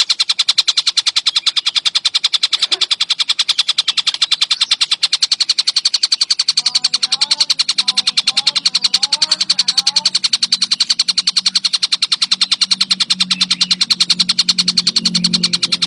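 Tengkek buto bird calling in a fast, unbroken train of sharp, high ticking notes, about ten a second. Fainter lower sounds run underneath: a short warbling phrase midway and a low hum near the end.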